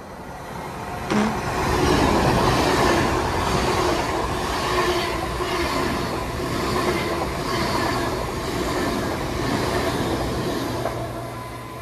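Passenger train passing slowly through a station: wheels on rail and traction equipment with a steady hum and whine. It builds over the first couple of seconds, holds with a regular beat of wheels over rail joints about once a second, and fades near the end. A sharp click comes about a second in.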